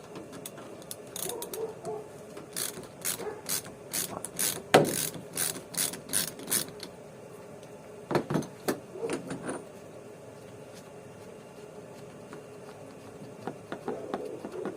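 Socket ratchet with a 27 mm socket clicking as a large nut is worked loose: a run of quick clicks, about three a second, then a few more after a short pause.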